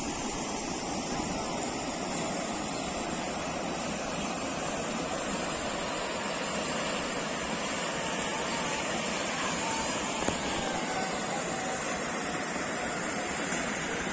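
Steady rushing of tidal floodwater flowing over and around a village road, with a small click about ten seconds in.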